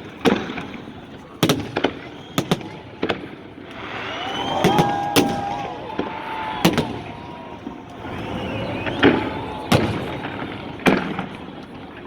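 Fireworks salute going off: about a dozen sharp bangs at irregular intervals, with bursts of crackling and rushing noise between them.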